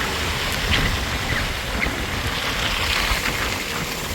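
Snowstorm wind blowing steadily, rushing and buffeting on the microphone, with a few faint short high squeaks over it.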